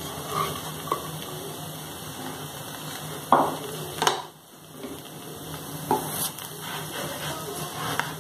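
Dosa frying on a non-stick tava with a soft steady sizzle, while a wooden spatula scrapes and taps against the pan several times as the potato-pea masala is spread and the dosa's edge is lifted.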